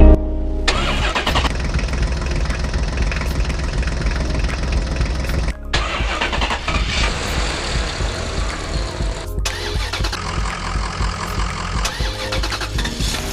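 A diesel engine running steadily with a heavy low rumble, cutting out briefly twice, about five and a half and nine and a half seconds in.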